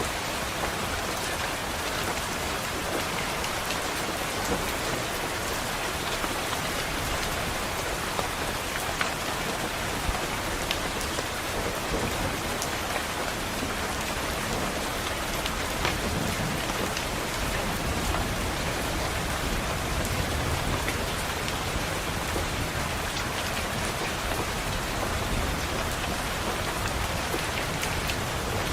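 Steady rain pattering on a window, with scattered sharper drop ticks. A low rumble of distant thunder swells in the second half.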